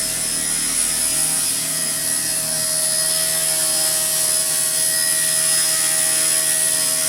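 WLtoys K110S RC helicopter hovering: its electric motor and single main rotor give a steady high-pitched whine that holds one pitch throughout.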